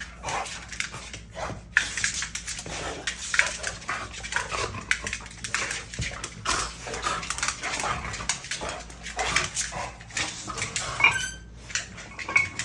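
Bully-breed dogs play-fighting: a dense, irregular run of rough growling and scuffling, with a short high whine about eleven seconds in.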